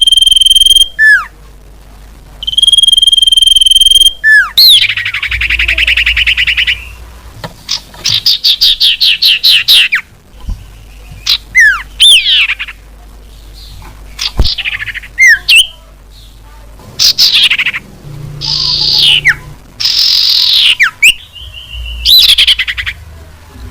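Common iora (cipoh) calling on a loud lure recording. It gives two long, steady whistles, each ending in a quick downslur. These are followed by rapid trilled chatters and then a string of sharply falling whistled notes.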